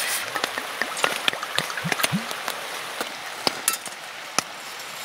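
Rain pattering on the tent fabric, heard from inside the tent: scattered, irregular ticks of drops over a soft steady hiss.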